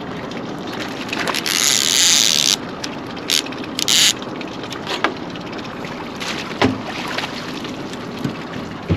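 Fishing boat trolling, with a steady run of motor and water noise. A loud rushing hiss comes about one and a half seconds in and lasts about a second, two shorter hisses follow near four seconds, and there are a few sharp knocks later.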